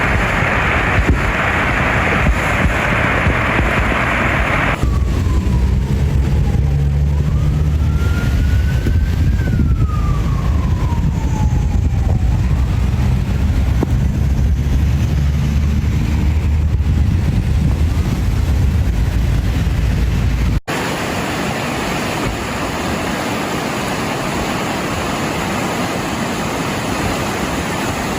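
Rushing floodwater; after a cut, an emergency siren wailing slowly up and down over a low rumble; after a second cut, steady rushing water again.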